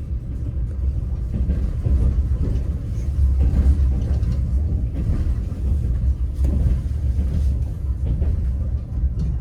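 Passenger train carriage rolling along: a steady low rumble with occasional knocks of the wheels over the rails.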